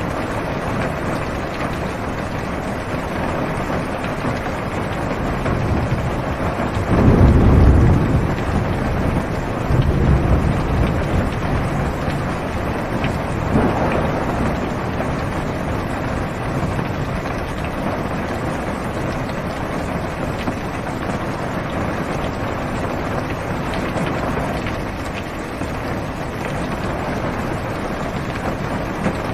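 Steady heavy rain falling on a car's roof and windows, heard from inside the cabin. A low rumble of thunder comes about seven seconds in, the loudest moment, with a weaker rumble a few seconds later.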